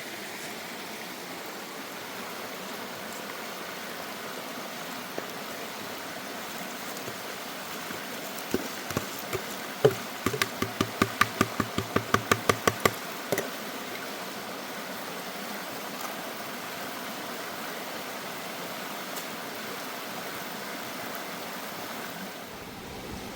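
Steady rushing noise, with a run of sharp knocks in the middle, about four a second for some five seconds.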